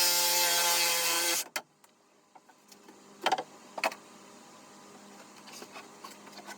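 An electric power tool's motor running steadily at constant pitch, then cutting off sharply about a second and a half in. A few light clicks and knocks follow.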